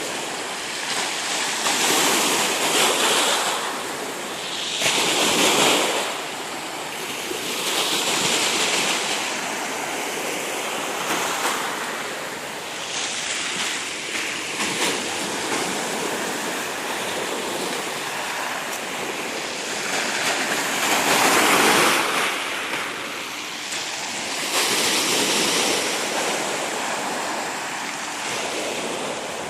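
Black Sea surf: waves breaking and washing in, the rush swelling and ebbing every few seconds.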